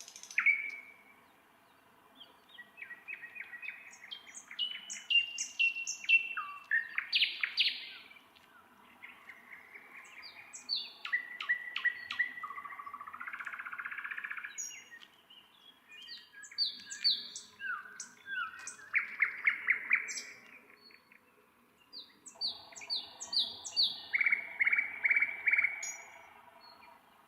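Nightingale singing: about four rich song phrases of rapid repeated notes, trills and clear whistles, each a few seconds long and separated by short pauses.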